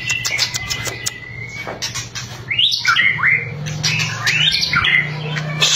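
White-rumped shama (murai batu) singing its 'kretekan' song: a quick series of dry clicking notes, then fast whistled phrases sliding up and down. A low steady hum runs underneath.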